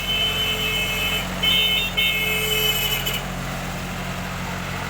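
Old tractor's diesel engine running steadily under load while working a front loader. A high, steady whine rides over it for the first three seconds or so, then cuts off.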